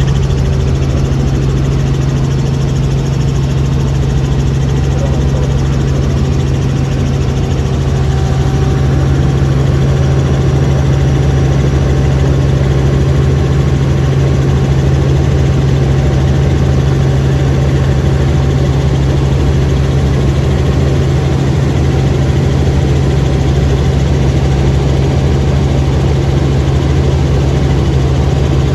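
Helicopter in steady flight, heard from inside the cabin: a loud, constant engine and rotor drone with a strong low hum that does not change.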